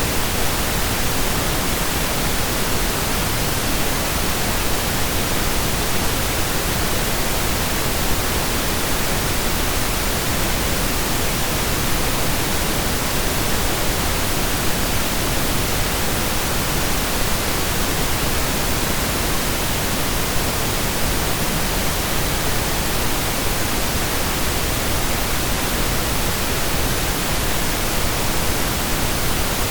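Steady synthesized pink noise: an even hiss spread across all pitches, with equal energy per octave, unchanging throughout.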